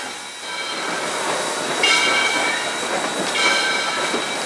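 Cab sounds of Southern Railway #630, an Alco 2-8-0 steam locomotive: steady steam hiss and running noise, with a short high-pitched tone repeating about every second and a half.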